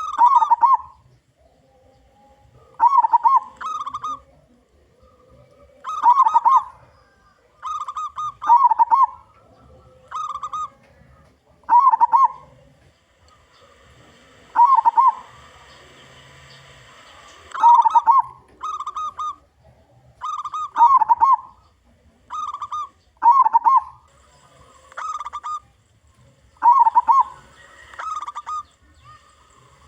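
Local zebra dove (perkutut) cooing: short clear coos in groups of two or three, repeated every one to three seconds.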